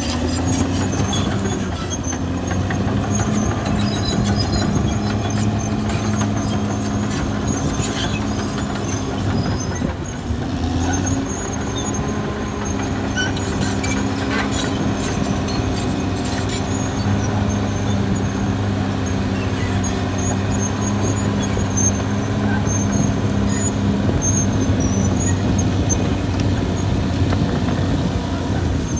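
Caterpillar D6R XL bulldozer at work: its diesel engine runs steadily, with scattered high metallic squeaks and a few sharp clanks.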